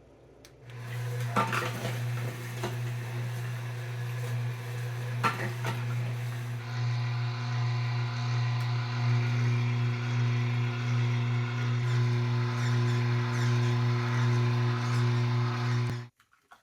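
Electric juicer motor running with a steady hum while fruit is fed in, crunching and knocking against it. The motor starts about a second in and cuts off suddenly near the end.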